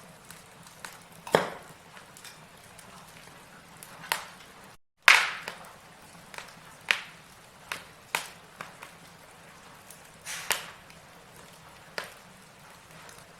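Logs burning in a fireplace, crackling with sharp, irregular pops over a faint hiss, roughly one loud pop every second or two. The loudest pop comes about five seconds in, straight after a split-second drop to silence.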